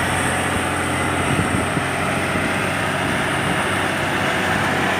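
Truck engine running steadily, with an even hiss laid over it.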